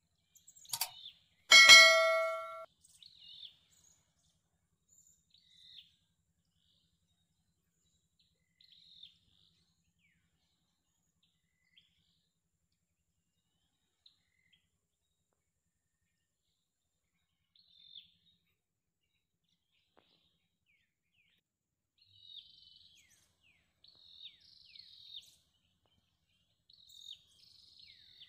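Faint, scattered bird chirps, coming more often near the end. Early on, a single loud metallic ding rings out for about a second, just after a short click.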